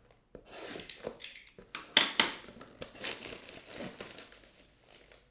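Plastic wrapping crinkling and tearing as card packaging is opened, with two sharper crackles about two seconds in.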